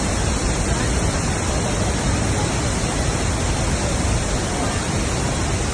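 Niagara Falls: a great volume of water plunging and crashing, heard as a steady, even rush that is heaviest in the low range.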